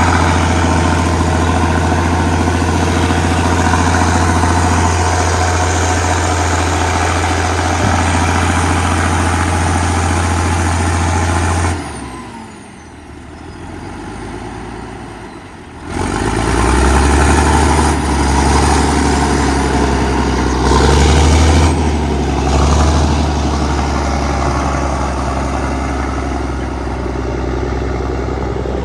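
Diesel engine of an Allis-Chalmers HD-21 crawler dozer running steadily. About twelve seconds in the sound falls away for around four seconds, then the engine comes back at a deeper, less even note that rises and falls with the load.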